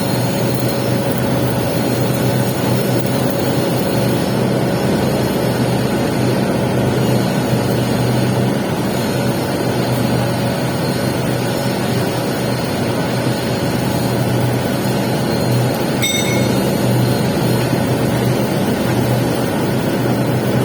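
Welding arc crackling steadily during the capping pass on a pipe weld, over a steady low hum. A brief high chirp sounds about three quarters of the way through.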